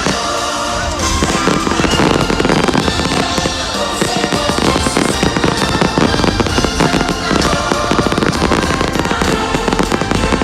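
Fireworks going off in quick succession, a dense run of bangs and crackles, over loud music from the show's soundtrack.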